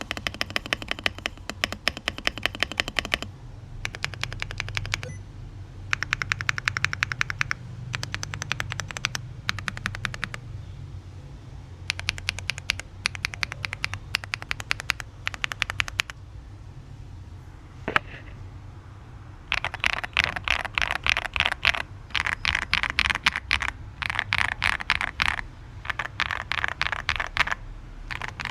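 Aula S75 Pro mechanical keyboard being typed on in fast runs of rapid keystrokes, each run a few seconds long with short pauses between them, and one lone key press partway through.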